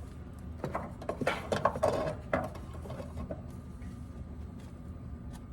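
A serving spoon clinking and scraping against a pot and plate as cooked millet is dished up, a cluster of short clatters over the first three seconds, over a steady low hum.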